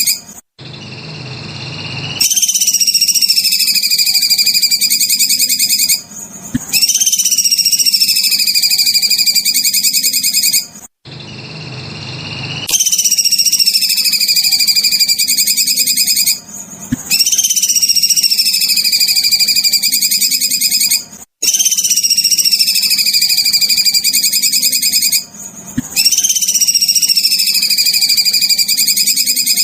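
Masteran songbird-training recording: a high, rapid trilling call in phrases of about four seconds, each opening with a sweep that dips in pitch and then levels off. The phrase repeats six times with short breaks between.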